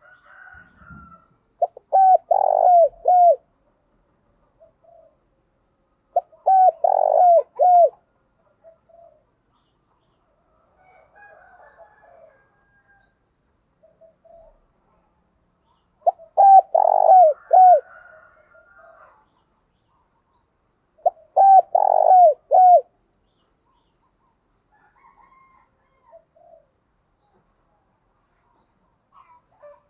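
Spotted doves cooing: four loud phrases of several short, hooked coos each, spaced about five to ten seconds apart, with fainter coos from another dove between them.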